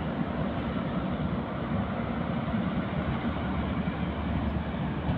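Indian Railways LHB passenger coaches rolling past along the platform: a steady rumble of steel wheels on the rails.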